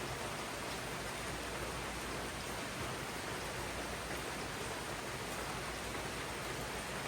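Steady jungle rain: an even hiss with no pauses and a few faint ticks of single drops.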